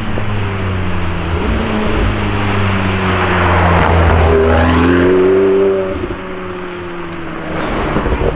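BMW Z4 M40i's turbocharged straight-six engine and exhaust accelerating past, its pitch rising and the sound growing to its loudest about four to six seconds in, then falling away quickly. A shorter swell comes near the end.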